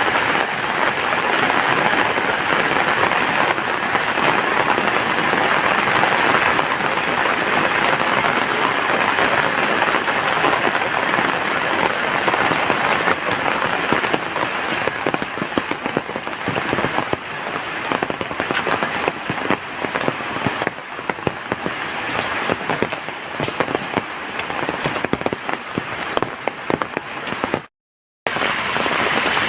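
Steady heavy rainfall: a dense hiss full of separate drop hits. It cuts out completely for about half a second near the end.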